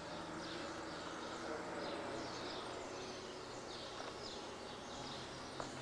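Small birds chirping over and over above a low, steady background hiss.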